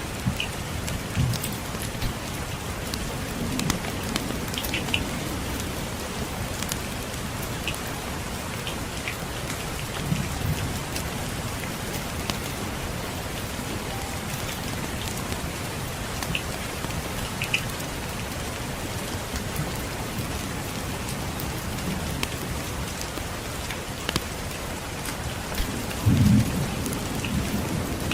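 Steady rain falling, with low rumbles of distant thunder now and then, the strongest near the end.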